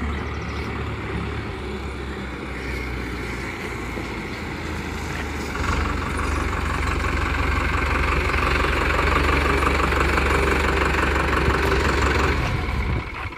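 Powertrac Euro 55 Next 4WD tractor's diesel engine running as the tractor arrives: the engine note grows louder about five seconds in, holds steady, then drops away abruptly shortly before the end.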